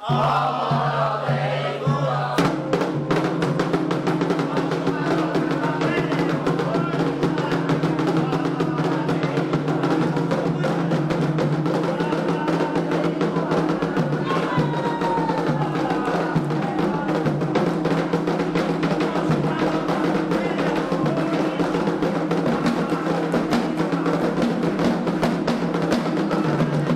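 Candomblé ritual drumming on atabaques, a fast, dense rhythm that comes in fully about two seconds in, with voices singing over it.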